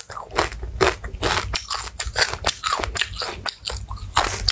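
Someone chewing a mouthful of crispy deep-fried grasshoppers, with sharp, irregular crunches several times a second.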